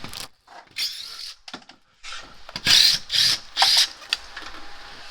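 A tool working on the air conditioner's fittings in short noisy bursts: a brief one about a second in, then three loud bursts in quick succession around the middle.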